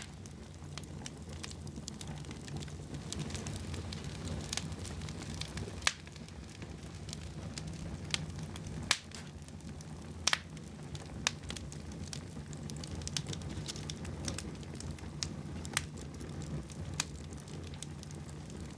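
Wood fire burning in a fireplace: a steady low rumble with irregular crackles and a few louder pops.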